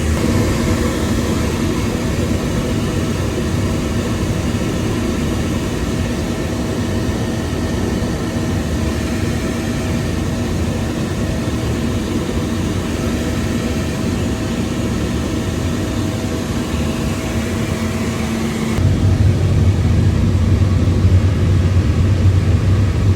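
Gas boiler running during a test fire after its gas pressure has been checked: a loud, steady blower-and-burner noise with a low hum. About nineteen seconds in it turns deeper and louder, and the higher hiss drops away.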